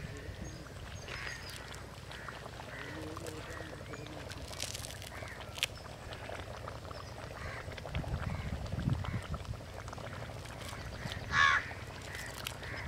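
Birds calling outdoors: scattered short calls throughout, with one louder call near the end.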